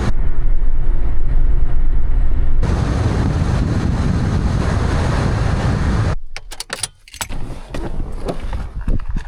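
Car driving, a steady low road and engine rumble. About six seconds in it gives way to a quieter run of separate knocks and clicks.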